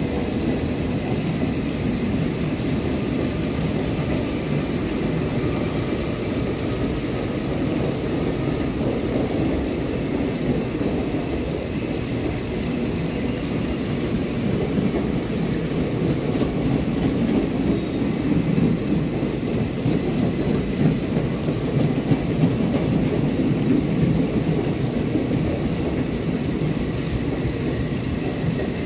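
ICF passenger coaches of an Indian express train rolling past, a steady low rumble of wheels on the rails, with rain falling.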